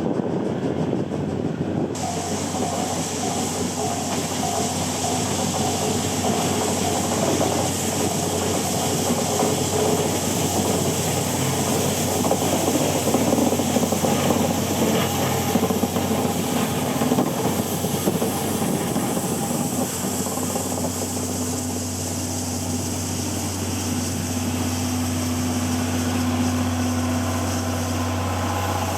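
C11 steam locomotive running with a train, steam hissing over the clatter of wheels on the rails.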